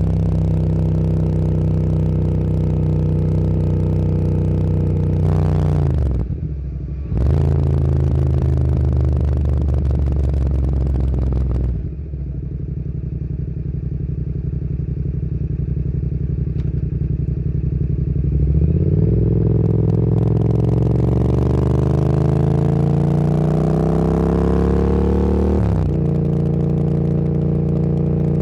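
Motorcycle engine under way, heard from on the bike, holding steady revs with a brief cut in throttle about six seconds in and an easing off about twelve seconds in. From about two-thirds of the way through, the revs climb steadily for several seconds, then drop suddenly at a gear change.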